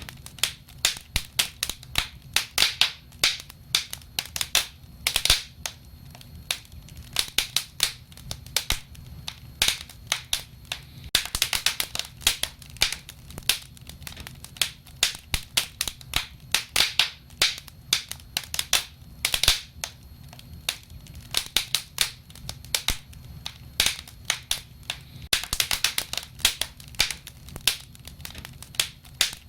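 Wood fire crackling, with irregular sharp pops and snaps that come thicker about a third of the way in and again near the end, over a faint low steady rumble.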